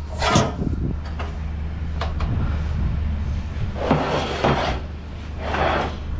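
Truck engine idling with a steady low hum, with several clunks and rattling bursts over it: one just after the start and a longer cluster past the middle.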